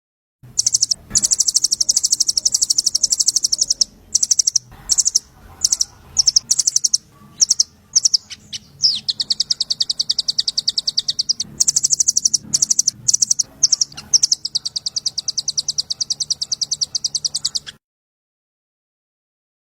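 Small songbird's rapid, high-pitched trill, repeated in long runs with a few short breaks, over a faint steady low hum. It cuts off abruptly a couple of seconds before the end.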